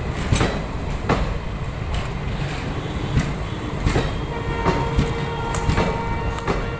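Train running on the track: a steady low rumble with irregular sharp clacks of the wheels over rail joints.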